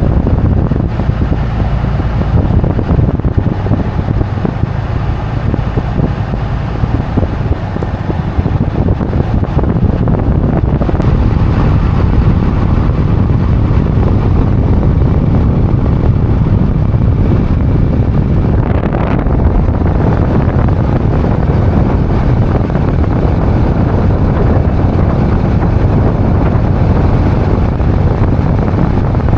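Pickup truck driving: steady engine and road noise with some wind rush.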